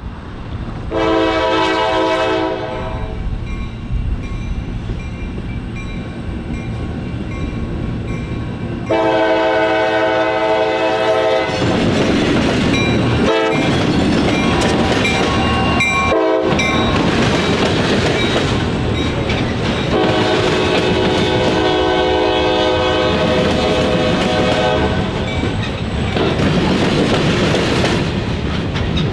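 CSX local freight train: the diesel locomotive sounds its multi-note air horn three times, about a second in, about nine seconds in and again around twenty seconds in, the last blast the longest. Under and between the blasts runs the rumble and clickety-clack of the train rolling by, which grows louder about nine and twelve seconds in.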